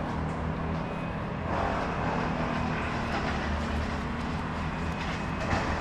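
An engine running steadily at an even low pitch, with no revving.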